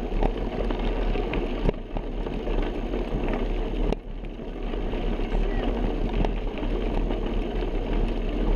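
Wind buffeting the microphone of a camera carried on a moving bicycle, a steady low rumble over the rolling noise of the ride, with a couple of sharp clicks.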